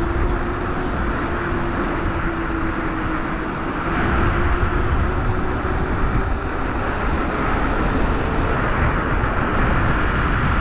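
Wind noise rushing over the microphone of a Teewing Mars XTR electric scooter moving at speed, with a faint steady whine underneath that rises slightly in pitch. It gets louder about four seconds in.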